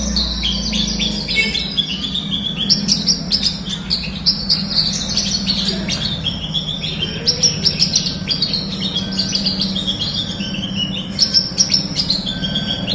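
Horsfield's bush lark (branjangan) singing a fast, continuous song of rapid chirps and trills, with a steady low hum underneath.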